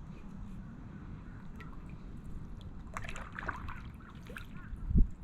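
Kayak paddle dipping and sloshing in shallow water, with water trickling off the blade, over a low, steady rumble. A single dull bump near the end.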